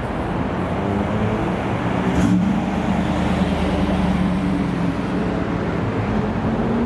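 American car engine running at low revs with a steady low rumble, a little louder from about a second in, with one short sharp click just over two seconds in.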